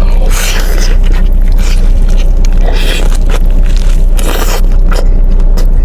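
Close-miked eating sounds: a person biting and chewing birria ramen, in irregular noisy bursts over a steady low hum.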